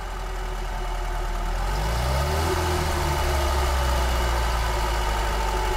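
Car engine fitted with about 30 kg of stacked flywheels, heard from inside the cabin, running with its revs sinking only slowly after the throttle is shut. The heavy flywheels' inertia keeps the engine spinning, so it takes a long time to drop back to idle.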